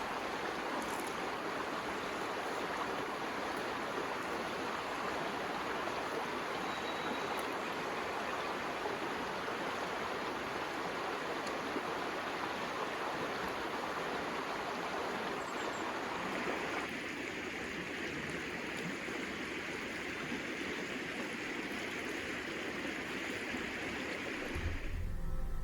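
River water rushing steadily. Its tone shifts slightly about two-thirds of the way through.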